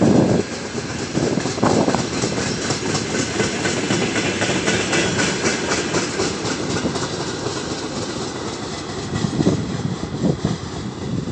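Freight train of tank cars and flat cars rolling past at low speed, the wheels clattering over the rail joints, the sound easing slightly as the end of the train moves away.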